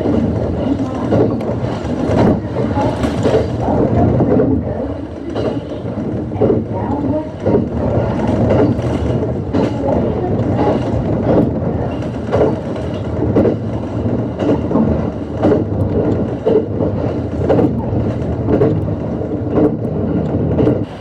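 Running noise of an ET127 series electric train: a steady rumble with frequent irregular knocks and clatter from the wheels on the track.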